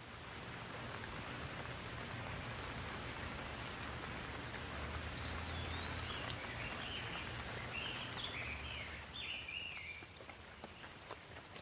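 Steady rain falling, with a bird chirping short notes over it, most busily in the middle, and a low rumble underneath.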